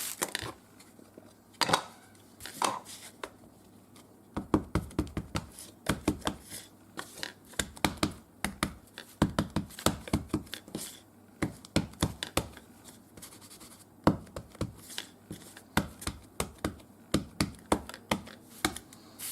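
A craft-foam stamp being tapped repeatedly onto an ink pad to ink it: a quick, irregular run of light knocks, several a second, starting a few seconds in after a couple of single clicks.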